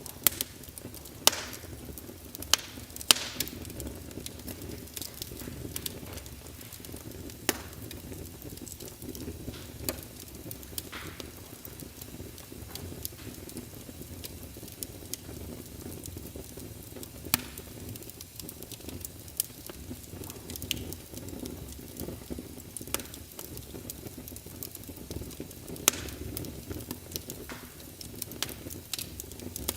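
Wood fire crackling in a fireplace: a steady low hiss with irregular sharp pops and snaps, a cluster of louder pops in the first few seconds and another about 26 seconds in.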